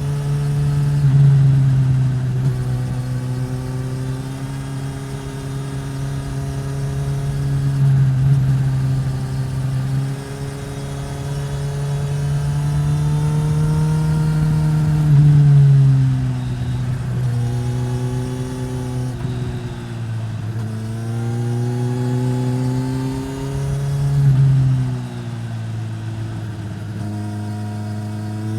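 Suzuki GSX-S1000's inline-four engine through a Yoshimura R-11 slip-on exhaust, riding under changing throttle. The engine note climbs steadily and swells, then drops sharply several times, about a quarter, two thirds and five sixths of the way through, as the rider shifts or rolls off.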